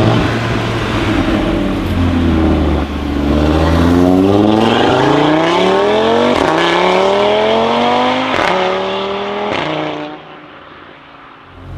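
Audi RS3 8V Sportback's turbocharged five-cylinder, fitted with a Milltek downpipe and with its secondary catalytic converter removed, accelerating hard. A steady low drone gives way to an engine note rising in pitch through the revs, with a few sharp cracks in the second half. The sound then falls away quickly about ten seconds in.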